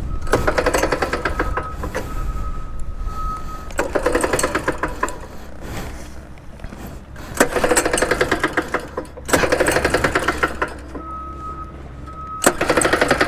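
Axis M200 mini bike's engine turned over with its recoil pull-starter five times, each pull a rattling burst about a second and a half long, and the engine never catches. This is the sign of an engine that has failed inside.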